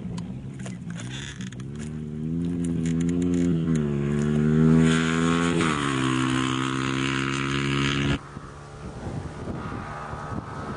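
Engine of an off-road rally racing vehicle coming on hard, its pitch climbing as it revs and approaches, loudest about five seconds in, then cutting off suddenly about eight seconds in; a fainter engine carries on after.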